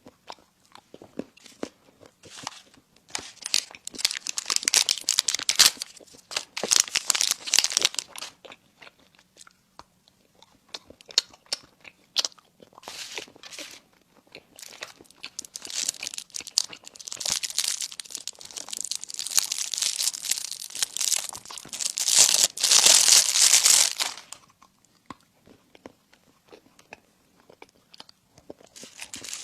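Close-miked eating of crispy baked food: crunching bites and chewing in two long spells, with scattered smaller crunches between them.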